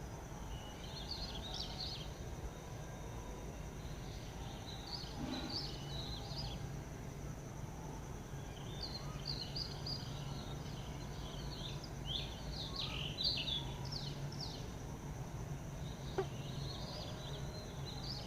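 Wild birds chirping in several bouts of quick, high calls, busiest in the middle, over a steady high hum and a low background rumble. One sharp click near the end.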